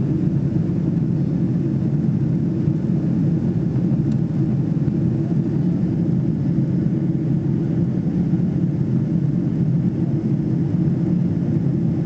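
Steady low cabin rumble of a Boeing 777-300ER in flight: its GE90 engines and the airflow over the fuselage, heard from a window seat inside the cabin.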